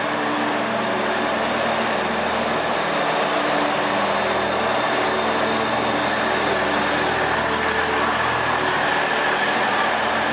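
Diesel-electric multiple unit (KRDE) train built by PT INKA pulling into the platform, its diesel engine droning steadily with a faint high whine. It grows a little louder over the first few seconds.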